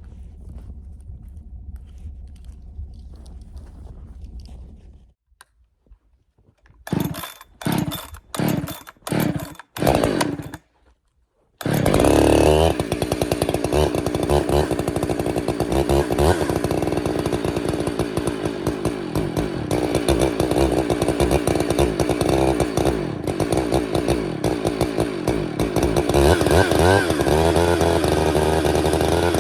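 Two-stroke chainsaw: after a faint low hum and a pause, about five short loud bursts of engine noise, then a brief gap, and from about twelve seconds in the saw runs loudly and continuously with its pitch shifting, as when bucking a log.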